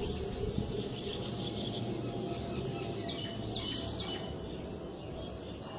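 Small birds chirping a few times about three to four seconds in, over a steady low background rumble.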